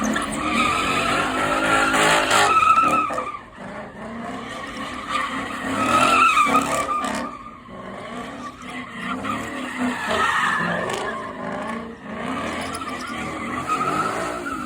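Car tires squealing as cars spin their wheels in burnouts or donuts, with engines revving under the squeal. The squeal wavers and comes in waves, easing off briefly a few times.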